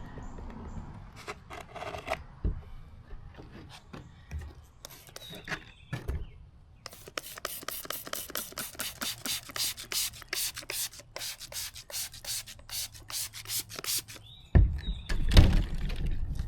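Quick, regular rubbing or scraping strokes, a few a second, kept up for about seven seconds, like something being rubbed or scrubbed by hand. A few heavy thumps come near the end.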